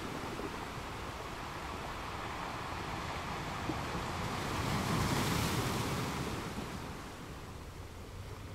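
Sea waves washing, a noisy swell that builds to its loudest about five seconds in and then falls away, with wind on the microphone.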